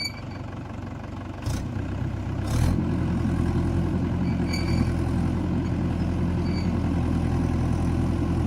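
Tractor diesel engine running. About two and a half seconds in it picks up to higher revs and holds there steadily.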